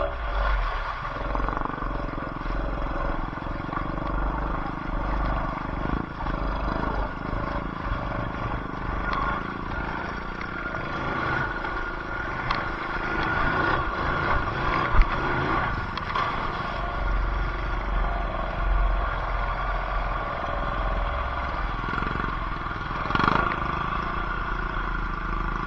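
ATV engine running steadily, with muffled voices.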